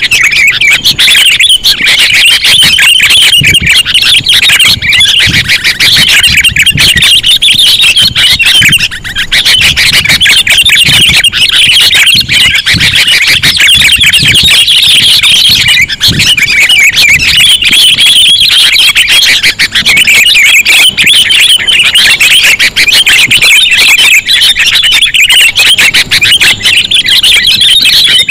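Dense, continuous chattering calls of sooty-headed bulbuls, a loud looped lure recording used to attract the birds, with rapid high notes running on without pause.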